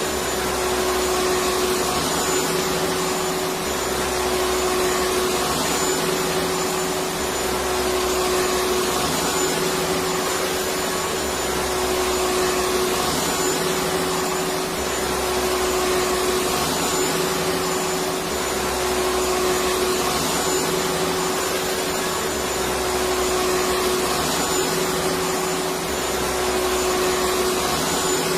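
Electric vacuum cleaner running steadily: an even hiss of rushing air over a constant motor whine. Underneath, a low hum swells and drops every couple of seconds.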